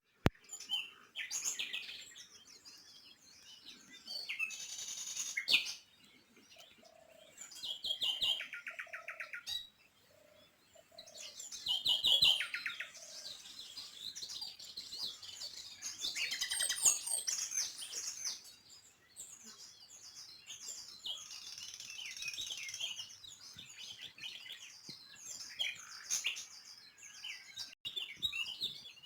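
Many small birds chirping and twittering together, with quick high trills coming in waves. A single sharp click sounds just after the start.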